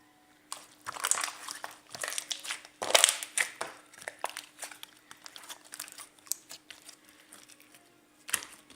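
Crinkling, crackling handling noise: a dense run of small crackles and clicks that thins out after the first few seconds, then one sharp crackle near the end.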